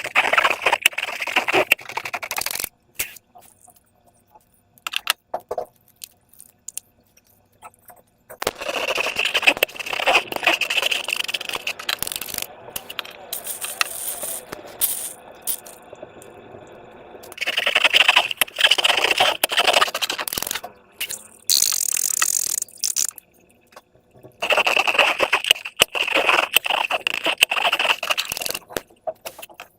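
Slime and rubber balloons being squeezed and worked by hand: crackling, scraping and squishing in four long bursts with quieter pauses between.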